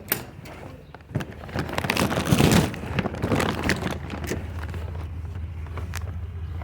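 A vehicle engine runs with a steady low hum, settling in from about four seconds in. It follows a louder burst of noise about two to three seconds in.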